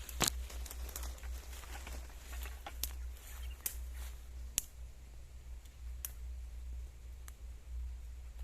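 Short, sharp alarm notes from an agitated parent yellow-vented bulbul near its nest, coming irregularly about six times, over a steady low rumble.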